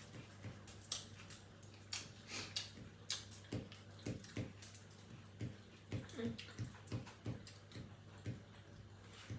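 Close-miked eating sounds: wet chewing, lip smacks and mouth clicks, coming irregularly, over a steady low hum.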